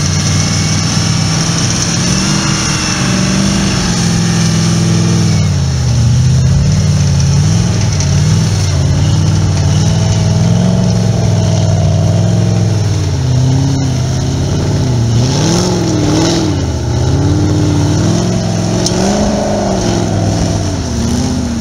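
Off-road buggy's engine revving under load as it climbs a steep slope, its pitch rising and falling again and again as the throttle is worked.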